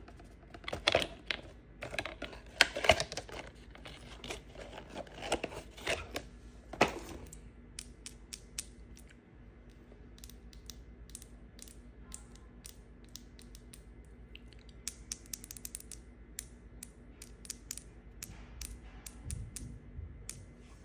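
A knife cutting and scraping dry soap, with crisp crunching and crumbling for about the first seven seconds, then a run of light, sharp clicks and cracks.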